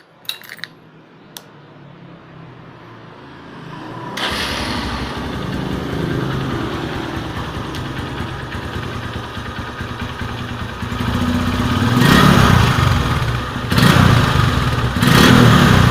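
Honda New Megapro motorcycle's single-cylinder engine started through a genuine Honda Tiger Revo exhaust: a few clicks, the engine catches about four seconds in and idles, then is revved up twice near the end. The exhaust note is 'gahar' (fierce).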